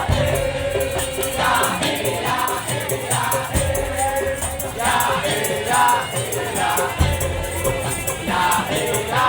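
Madurese tong-tong (daul) ensemble playing: steady drum and percussion beat with a melodic line bending above it over a held tone.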